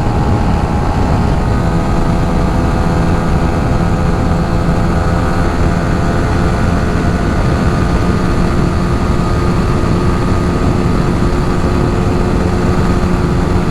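Yamaha R15 V3's 155 cc single-cylinder engine running steadily under way through a stock exhaust with its muffler baffle cut out, giving a louder, free-flowing exhaust note. Wind rushes low underneath.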